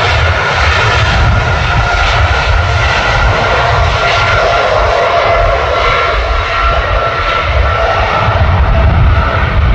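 Jet airliner engines running loud, a steady whine over a heavy low rumble.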